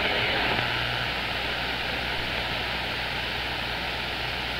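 CB radio receiver hiss: steady static on an open channel between transmissions.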